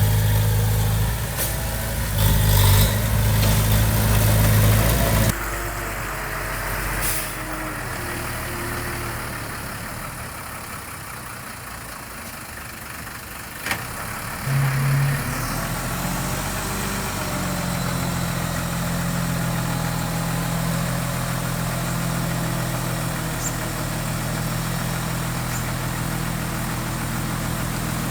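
Heavy construction machine's diesel engine running: loud for about five seconds, then dropping abruptly to a quieter steady run, with a short louder spot about halfway through before it settles steady again.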